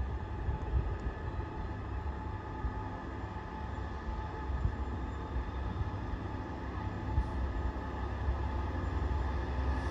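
Train running, a steady low rumble with a faint steady hum above it.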